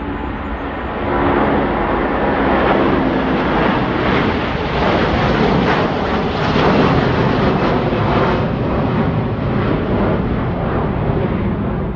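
A departing airliner's engines at takeoff power: a loud, steady rumble and hiss that swells about a second in and holds.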